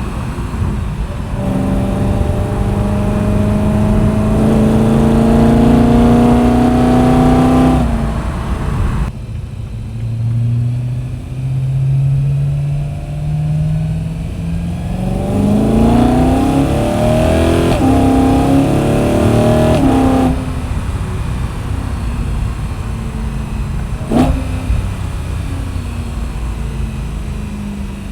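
BMW E92 M3's V8 with an M Performance muffler accelerating, its pitch climbing steadily, then dropping off about nine seconds in. From about fifteen seconds it pulls again harder, climbing through gear changes, then lifts off abruptly around twenty seconds and settles to a low cruise, with a single sharp knock a few seconds later.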